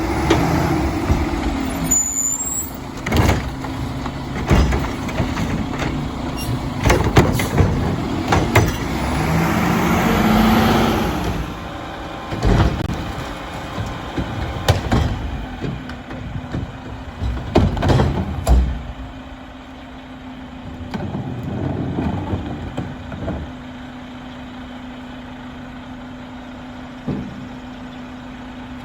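Mack LR garbage truck with a Curotto Can arm working carts: the engine revs and swells under hydraulic load, with repeated sharp metal bangs and clanks through the first two-thirds. After that it settles to a steady idle hum with an occasional knock.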